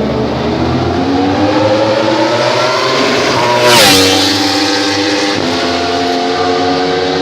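Superbike engine accelerating, its pitch climbing steadily. About halfway through it peaks in loudness and its pitch drops sharply, then an engine note climbs slowly again.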